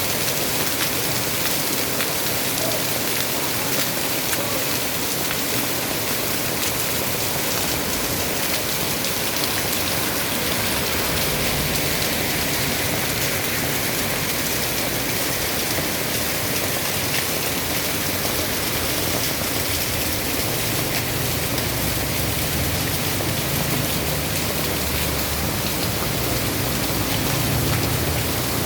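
Heavy rain falling steadily, a dense even hiss of rain on surfaces, with a low rumble joining in during the second half.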